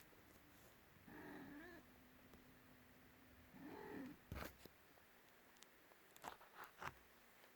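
Maine Coon kitten giving two short, faint meows with a bending pitch, followed by a few soft knocks and taps.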